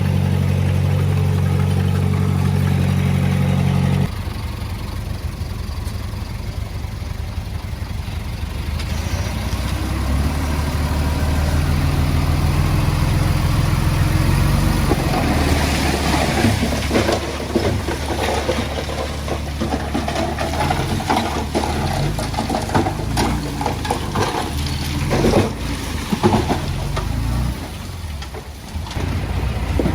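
Diesel engine of heavy earthmoving equipment running, its note shifting as it works. An abrupt change about four seconds in, and from about halfway on, repeated clanks and knocks over the engine.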